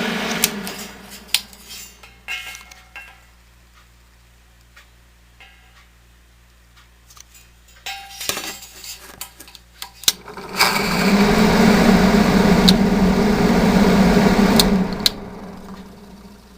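1970 Triangle Mobile Home Products bathroom exhaust fan winding down, then scattered clicks and clatter of handling. About ten seconds in the fan starts suddenly and runs loud with a strong hum for about four seconds, then winds down.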